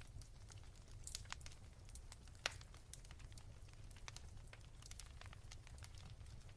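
Wood fire crackling softly: scattered small snaps and pops over a low steady rumble, with one sharper pop about two and a half seconds in.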